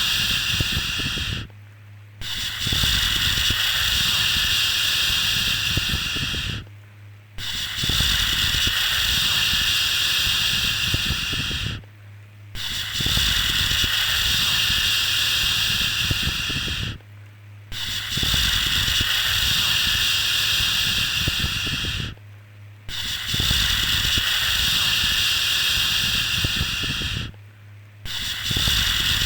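A rhythmic 'shhh' shushing sound for calming a baby to sleep: long, steady hissing shushes of about four and a half seconds each, separated by short pauses, repeating about every five seconds.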